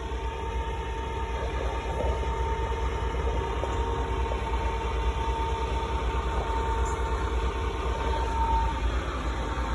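A heavy engine running steadily at idle, a low even rumble with a steady whine over it that fades out near the end.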